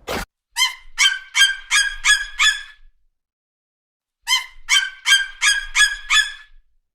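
A bird giving short, honking calls in two quick runs of about six each, with a pause of about a second and a half between the runs.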